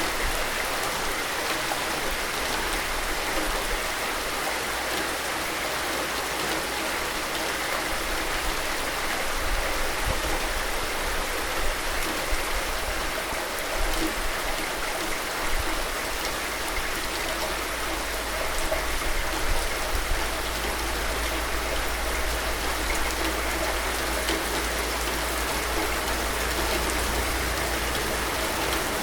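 Steady rain, an even hiss with occasional sharper drop taps.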